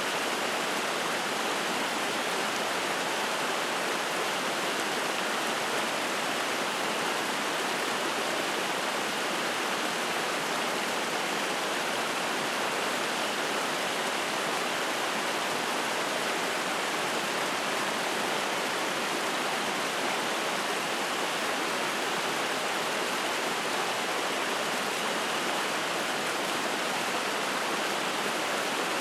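Spring-fed mountain stream splashing, a steady, even rush of water that does not change.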